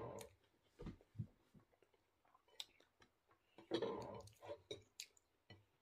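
A person chewing food close to the microphone: quiet, irregular mouth clicks and soft chewing noises, louder for a moment about four seconds in.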